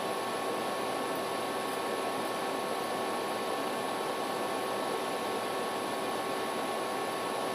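Steady background hiss and hum with a few faint constant tones, unchanging throughout.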